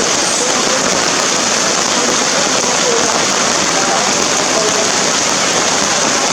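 Heavy rain falling steadily in a hiss that does not let up.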